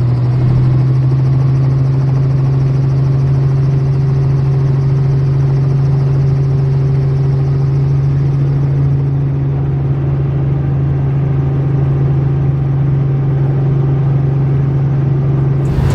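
Helicopter engine and rotors running steadily, a constant low hum over a loud even rush. It changes abruptly just before the end, as music comes in.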